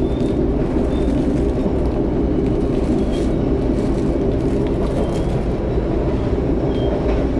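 Steady low rumble of a moving passenger train, heard from inside the carriage: the running noise of the wheels and carriage underway.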